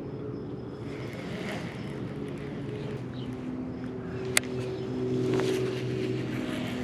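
Small boat motor running steadily, its hum shifting pitch a little partway through, with one sharp click about four seconds in.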